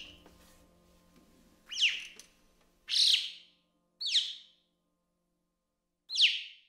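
A bird calling: four short, sharp chirps, each falling steeply in pitch, spaced one to two seconds apart.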